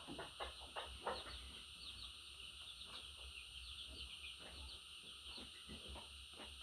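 Budgerigar chattering: a rapid run of short high chirps mixed with clicking, clucking notes.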